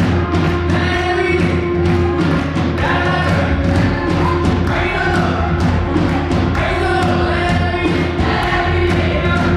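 Up-tempo live gospel worship music: a group of voices singing together over a band with a heavy bass line and a steady, driving drum beat.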